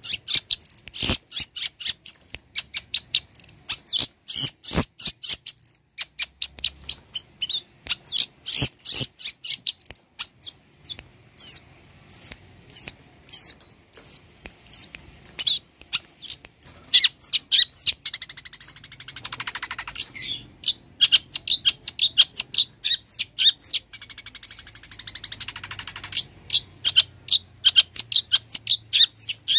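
Long-tailed shrike (cendet) singing a fast, varied song. It starts with sharp clicking notes, then moves to quick chirps, with a harsher, scratchy passage in the second half.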